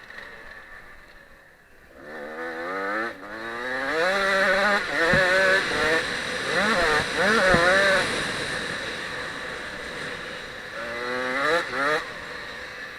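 Husqvarna TC 65's small two-stroke engine revving hard, its pitch climbing and falling again and again as the bike accelerates and shifts around the motocross track. It is quieter for the first two seconds and rises again near the end.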